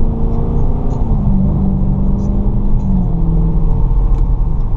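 Dodge Challenger Scat Pack's 6.4-litre HEMI V8 running on the road, a steady drone whose pitch drops in two steps, about a second in and about three seconds in.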